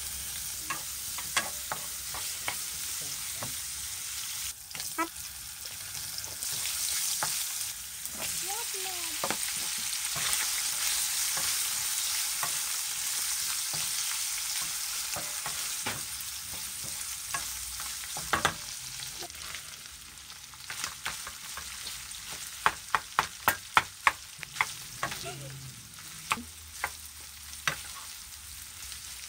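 Food sizzling in hot oil in a stone-coated wok, the hiss growing louder for several seconds about a quarter of the way in. A wooden spatula stirs and knocks against the pan, with a quick run of taps near the end.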